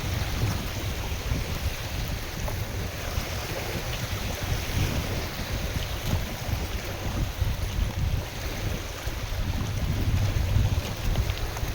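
Gusting wind buffeting the microphone with a low, rising and falling rumble, over small lake waves splashing and lapping.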